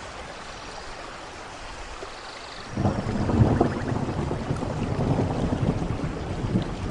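Steady rain hiss, then about three seconds in a loud low rumble of thunder breaks in and carries on crackling over the rain.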